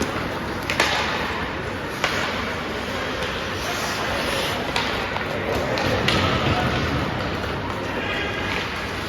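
Ice hockey game in an arena: steady crowd chatter with sharp cracks of sticks, puck and boards, four or so spread through.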